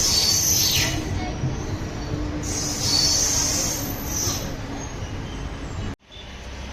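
Express passenger train moving slowly along the platform, its wheels squealing high-pitched twice over a steady low rumble. The sound cuts off suddenly about six seconds in.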